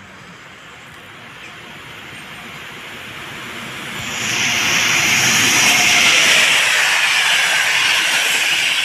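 PKP Intercity express train hauled by an EP09 electric locomotive passing through the station at speed. The rushing rail and wheel noise builds as it approaches and turns loud from about four seconds in as the locomotive and coaches go by.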